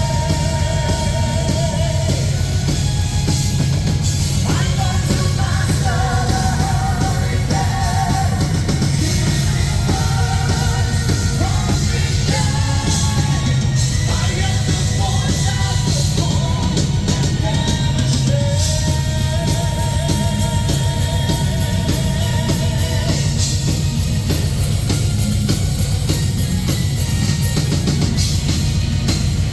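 Live symphonic metal band playing loud and steady, with drum kit and distorted guitars under long, wavering sung notes.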